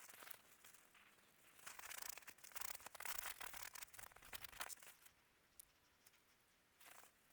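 Faint crackling: a dense run of small crackles and pops from about two seconds in, lasting about three seconds, then only a few scattered clicks. Typical of a campfire burning wood.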